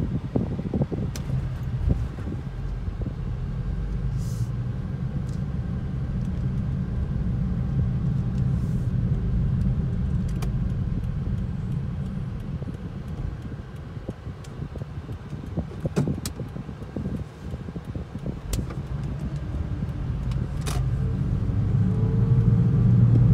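Cabin noise of a 2010 Toyota Prius driving on the road: a steady low drone, with a few light clicks and a rising whine near the end. The owners suspect a bad wheel bearing behind the drone.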